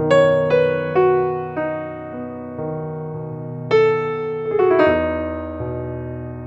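Background music: solo piano playing gentle chords, each note struck and left to ring out.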